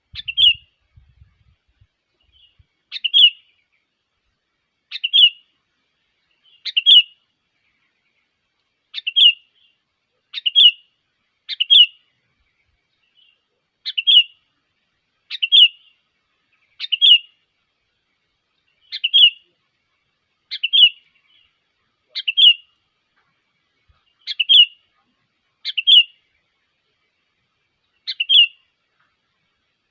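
Sooty-headed bulbul lure call: a single short chirping phrase repeated over and over, about every one and a half to two seconds, each one alike, over a dead-quiet background.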